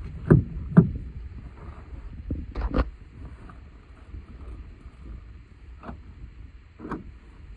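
Low rumble of a Ford Transit Connect van moving along, heard inside the cabin, with a handful of sharp knocks and clunks as it goes over bumps.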